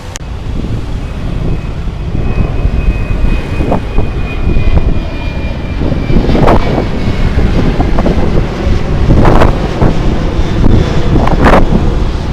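Riding noise from a moving motorcycle: wind buffeting the handheld phone's microphone over engine and road rumble. A faint thin whine drifts slightly down from about two to six seconds in, and there are several short, loud gusts later on.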